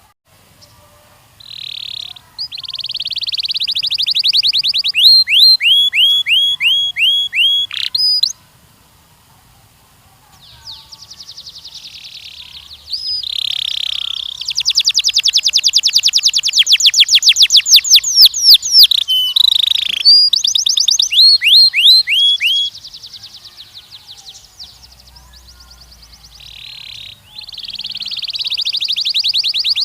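Canary singing a long song of fast trills and runs of repeated down-slurred whistled notes, phrase after phrase, with a short pause about a third of the way in.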